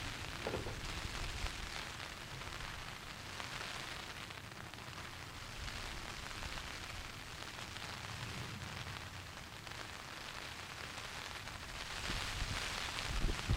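Steady rain with gusting wind, swelling louder near the end.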